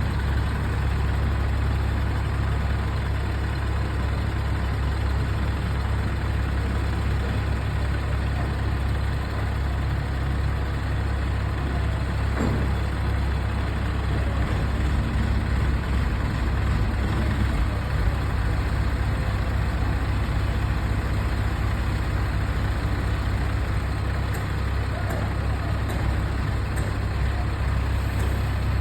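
A heavy vehicle engine running steadily at a constant level, with a deep low rumble.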